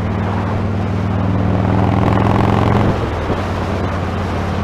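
Motorcycle engine running under heavy wind noise on a camera's external mic. The engine gets louder for a couple of seconds, then drops suddenly about three seconds in.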